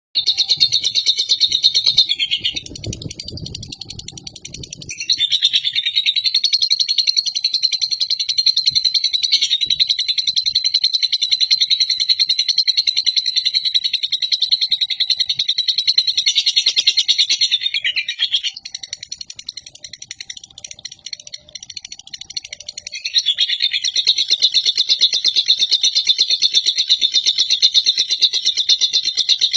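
Lovebird singing its long, rapid, high-pitched chattering trill (ngekek panjang) in long unbroken runs, with softer breaks about two seconds in and again about eighteen seconds in.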